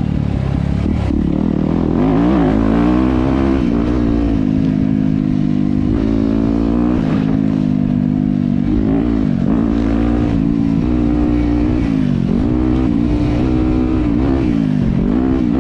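Dirt bike engine running under way on a trail, its pitch dropping and climbing again every couple of seconds as the throttle is rolled off and back on, with a low rumble of wind and ground underneath.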